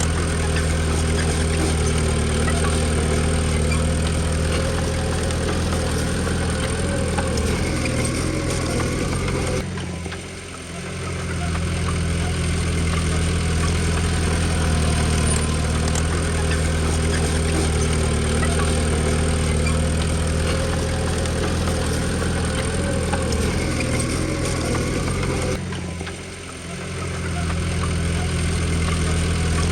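Small Komatsu D20P bulldozer's diesel engine running steadily at a constant speed. The sound briefly drops away and comes back twice, about ten seconds in and again near the end.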